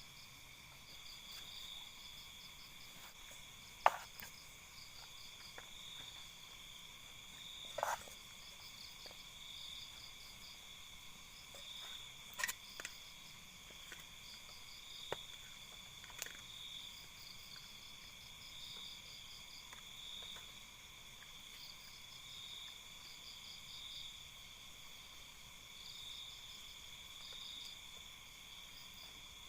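Night chorus of forest insects such as crickets: several steady high-pitched trilling layers, one swelling and fading every second or two. A few sharp clicks or snaps stand out over it, the loudest about four seconds in.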